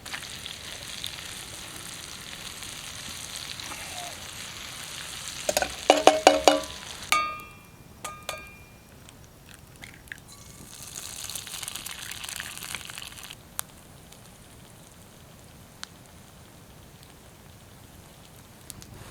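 Breakfast frying in a pan: potatoes, then eggs, sizzling steadily. A few sharp knocks with a short ringing tone come in around six to eight seconds in, and the sizzle is quieter for the last few seconds.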